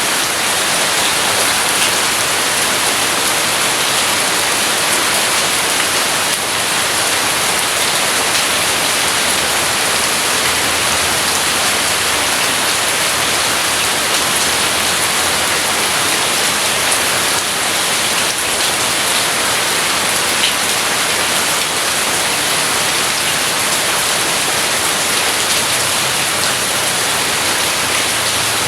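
Steady heavy rain falling and splashing on surfaces, an even hiss with scattered drop ticks.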